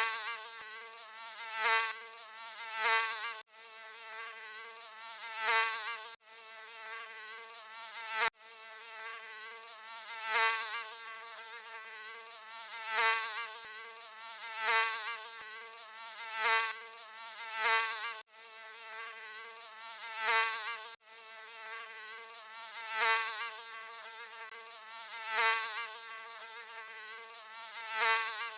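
Mosquito buzzing: a thin, high whine that swells louder and fades again every second or two, as if flying close past the ear. It drops out for an instant five times, where the recording is cut and looped.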